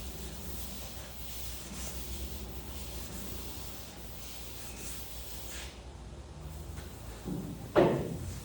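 A few faint rubbing strokes over a steady low hum, then a single loud knock near the end.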